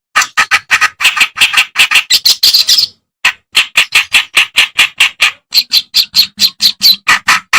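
Reed warbler (kerak basi) singing: a fast run of harsh, chattering notes at about seven a second, with a short break about three seconds in before the chatter resumes.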